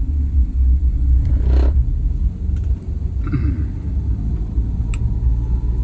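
Steady, loud low rumble, with a brief faint pitched sound about halfway through and a single click near the end.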